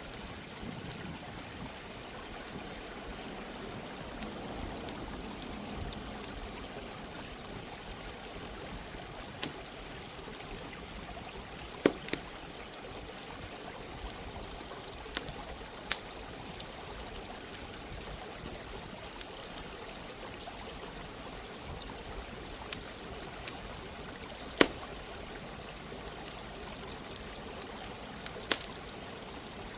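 Steady rush of running water with a campfire crackling over it: sharp, irregular pops of burning wood, a few of them loud.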